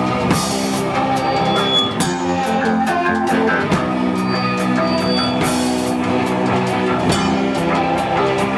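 Rock band playing live: sustained guitar chords over a drum kit, with cymbal hits throughout.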